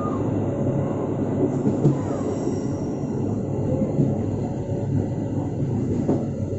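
Gaya Baru Malam Selatan passenger train running along the track, heard from its rear carriage: a steady rumble of wheels and carriage.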